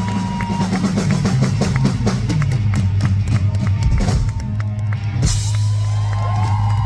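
Live rock band playing loudly: a drum kit keeping a steady beat over a strong bass line, with sustained electric guitar notes.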